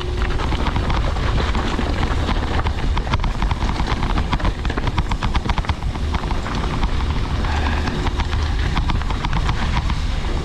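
Mountain bike descending a rough trail: wind buffeting the camera microphone with a steady low rumble, over a dense rattle of the bike's chain and frame and the tyres clattering over rocky ground.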